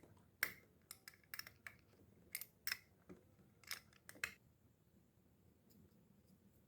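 Sharp, irregular mechanical clicks from a serviced Exori Atom fishing reel being handled and checked, about a dozen in the first four seconds, then a few fainter ones.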